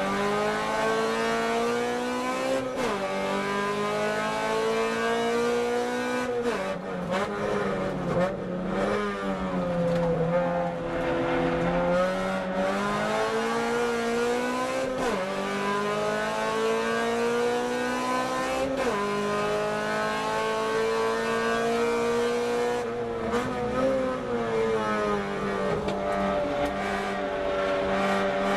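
Car engine driven hard around a racetrack. Its note rises and falls with the throttle, and the pitch changes sharply every few seconds at gear changes and lifts for the corners.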